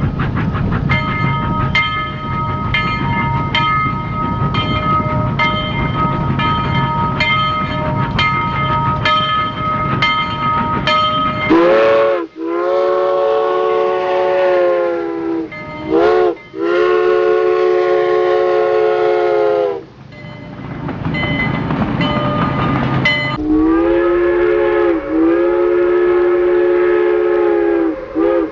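Miniature model train running on its track, with a rumble and regular clicking of the wheels over the rail joints, then sounding its whistle: a long blast, a short one and another long one, then after a few seconds of running a longer blast and a short toot near the end.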